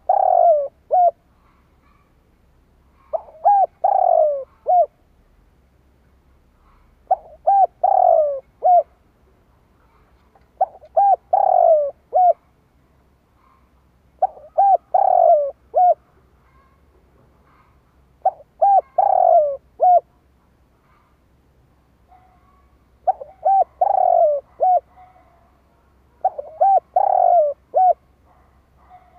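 Spotted dove cooing, giving its multi-note coo phrase about eight times, one every four seconds or so; a dove call of the kind played to lure wild doves.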